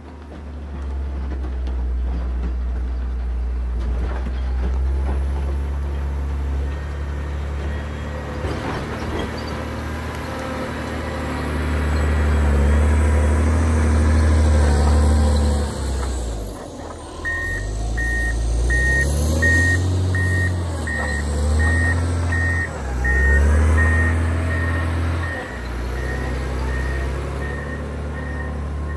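Diesel engine of a John Deere 670 motor grader running under load, its pitch rising and falling as it works. About seventeen seconds in, its reversing alarm starts beeping steadily as the grader backs up.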